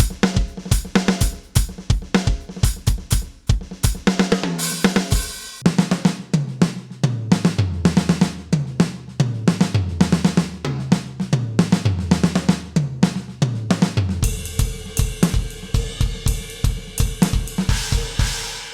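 KAT Percussion KT4 electronic drum kit played as a continuous beat, heard as the module's sampled sounds. About four seconds in, a tom fill steps down in pitch. A groove with deep, pitched drum hits follows, and about fourteen seconds in a ringing cymbal wash takes over over the beat.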